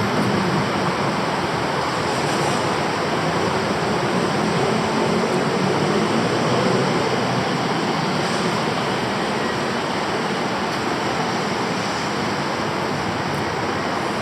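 Steady, even roar of city traffic noise, with no single event standing out.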